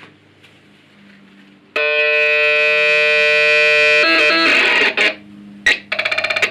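Electronic synthesizer sounding a low hum, then a loud buzzy held note for about two seconds. This is followed by a quick run of stepping notes and a noisy burst. Near the end come a rapid stutter of short repeated pulses.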